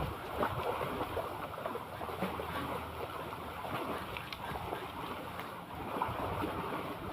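Seawater lapping and splashing, a steady rustling wash with small crackles throughout.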